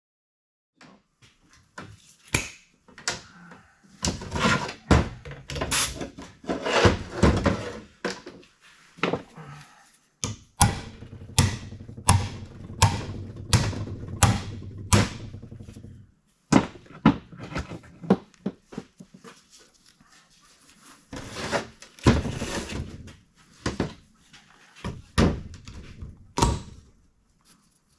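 Metal tools and engine parts being handled on a workbench: many sharp clanks and knocks at irregular intervals, with a steady low hum for several seconds in the middle.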